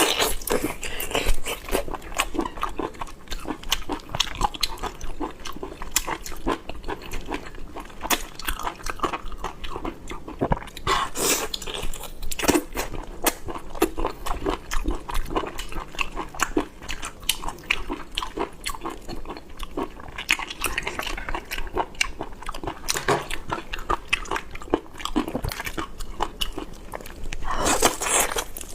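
Close-miked chewing and biting of boiled squid: a continuous run of wet mouth clicks and smacks, with a few louder bites.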